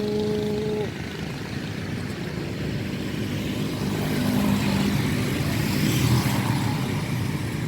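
Motor traffic passing on a busy street, building as a vehicle passes close around four to six seconds in, then easing. A short, steady single-pitched tone sounds in the first second.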